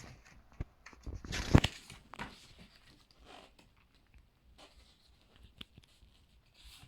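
Pages of a thick book being turned and handled. There is a loud paper rustle about a second and a half in, then scattered small taps and soft rustles.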